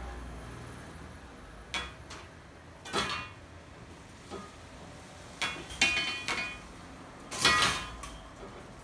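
Window blinds clattering and rattling as gusts of wind from a passing typhoon blow them against the window. There are several separate rattles, about four in all, with the loudest near the end.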